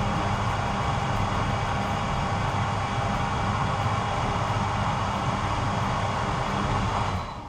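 Condenser tumble dryer running with a steady drum-motor and fan hum and airflow hiss, then switched off, the noise dying away near the end.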